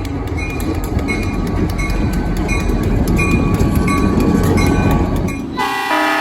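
Diesel freight locomotives rumbling by, loud and steady. About five and a half seconds in, the locomotive's air horn starts blowing a multi-note chord.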